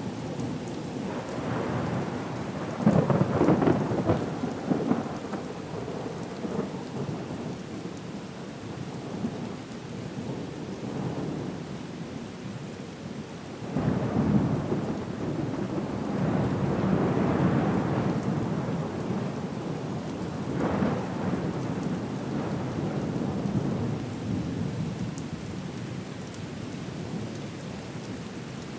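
Storm ambience: steady rain with deep rumbles of thunder swelling up several times, loudest about three seconds in and again near the middle.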